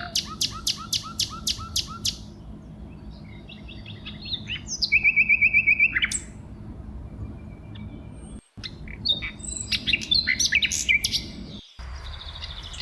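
Songbirds singing: a quick run of sharp repeated notes, then slurred whistles and a rapid even trill about five seconds in, followed by more chirping notes. The sound breaks off briefly twice near the end.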